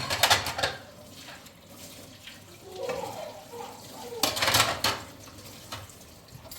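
Water splashing in bursts, loudest at the start and again about four seconds in.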